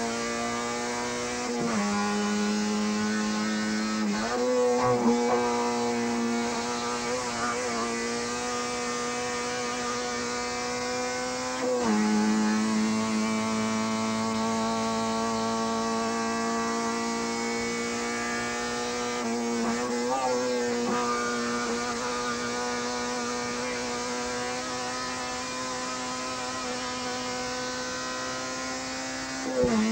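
Car engine heard from inside the cabin while driving, a steady droning note at fairly constant revs that dips briefly in pitch and recovers four or five times.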